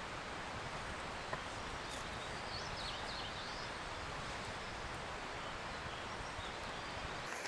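Steady, even outdoor rushing noise. A bird gives a brief chirping call about two and a half seconds in.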